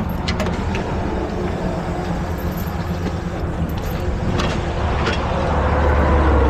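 Heavy diesel truck engine running with a steady low drone that grows louder in the second half.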